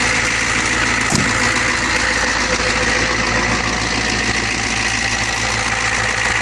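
Ford 6.9 L International IDI V8 diesel in a 1986 E350 van idling steadily with its regular diesel clatter, shortly after a cold start. A single short click about a second in.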